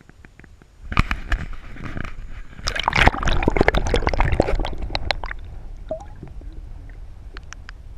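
Water sloshing and gurgling around a camera as it is put under the river's surface, with dense crackling clicks and bubbling, loudest from about one to five seconds in, then quieter with scattered ticks.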